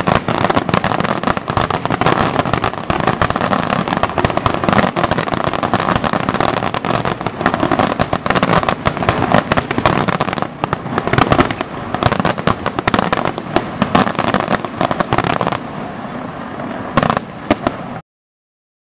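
Aerial fireworks bursting and crackling in a dense, continuous barrage of rapid bangs. It thins out near the end with one last sharp bang, then cuts off suddenly.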